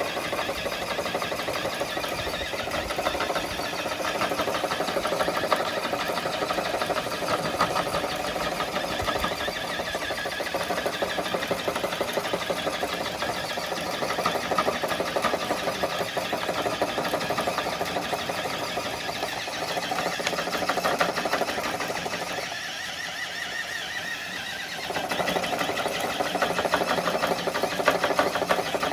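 Axial Base Camp RC crawler's electric motor and gearbox whining under load as the truck drags a weighted sled, easing off for about two seconds a little past three-quarters of the way through.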